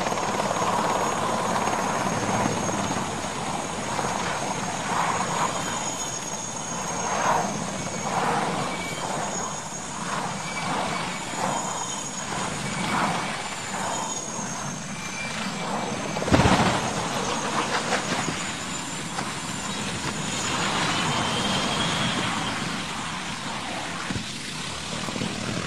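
Aircraft engine noise with a thin, wavering high whine, broken by one sharp, loud bang about sixteen seconds in.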